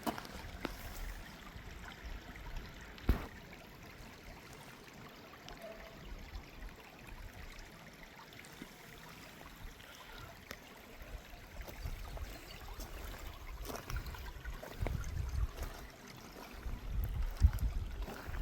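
Steady trickling of running water, like a small stream, with a sharp click about three seconds in and some low rumbling near the end.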